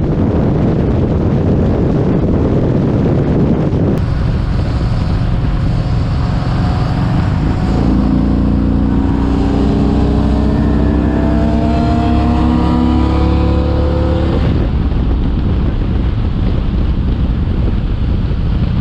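Motorcycle riding at speed with heavy wind buffeting on the microphone. About eight seconds in, the engine's pitch climbs steadily for around six seconds as it accelerates, then drops away.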